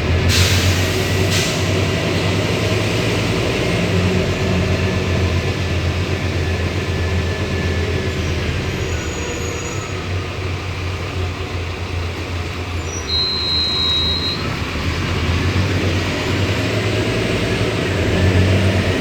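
Scania city bus's diesel engine running steadily as the bus drives, with two short air hisses near the start and a brief high beep about thirteen seconds in.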